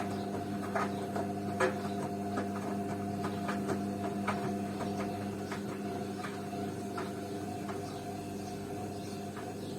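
Beko washing machine running, a steady motor hum with irregular light clicks and taps over it, fewer toward the end.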